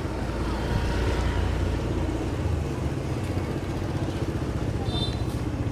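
A motorbike engine running close by over a steady street hum, louder in the first couple of seconds. A brief high tone sounds near the end.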